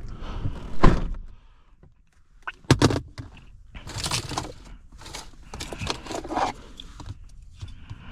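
Handling noises: a loud knock about a second in, then a run of clicks, clatter and scraping or rustling.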